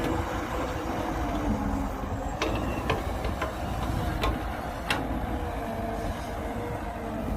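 Heavy diesel earthmoving machinery running steadily, with several sharp metallic clanks in the middle.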